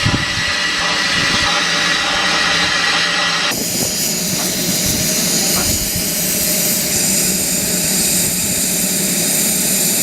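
Loud, steady running of engines or machinery, with a hissing, noisy quality. The sound changes abruptly about three and a half seconds in.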